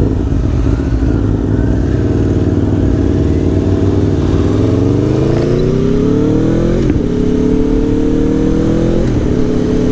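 Aprilia Tuono V4 1100 Factory's V4 engine accelerating hard, its pitch climbing steadily from a little before halfway. A quick upshift drops the revs and they climb again, and a second upshift follows near the end, over a low wind rush.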